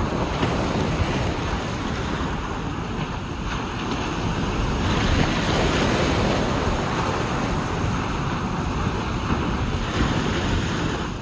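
Ocean surf washing onto a beach, with strong wind buffeting the microphone. The wash swells a little past the middle, then eases back.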